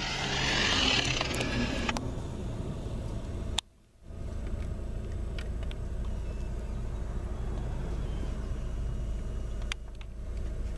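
Fire truck engine running: a loud hissing rush for the first two seconds, then a brief dropout and a steady low engine rumble.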